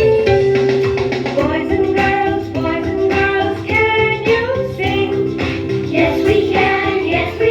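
A children's song: singing over a music backing track, the melody moving in short sung phrases.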